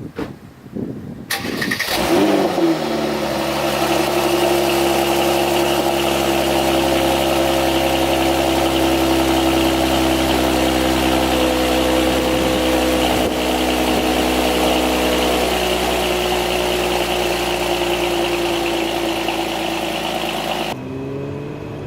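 Mercedes-AMG GLC 43's twin-turbo V6 being started: it cranks and catches, the revs flare up and fall back, and it settles into a steady idle. About a second before the end the idle suddenly sounds duller, losing its upper range.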